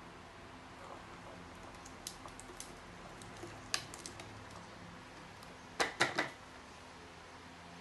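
Light scattered clicks and taps of small hard objects being handled, with a quick run of three louder clicks about six seconds in, over a faint steady hum.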